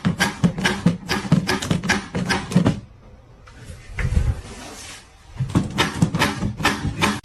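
A rapid, irregular series of knocks and clatters in two runs, with a quieter pause in the middle that holds a brief low rumble.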